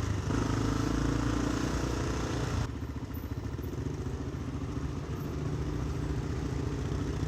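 Motorcycle engine running under the rider, with a steady hiss of air and road noise over it. About two and a half seconds in the hiss drops away, leaving the engine at low speed with an even pulsing beat.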